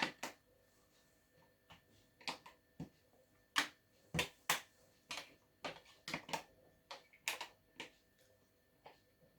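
Magnetic letters clicking onto and being shifted on a fridge door as a word is laid out: a string of irregular sharp clicks.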